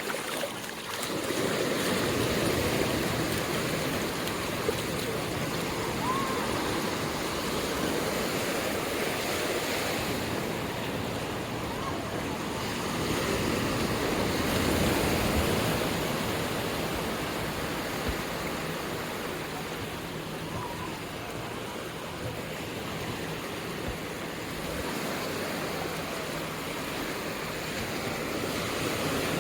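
Sea surf washing onto a sandy beach: a steady rush of waves that swells louder twice.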